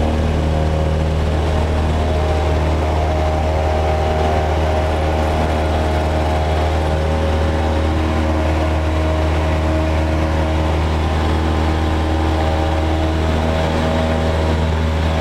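Cessna 172's piston engine and propeller running steadily at takeoff power, heard from inside the cabin.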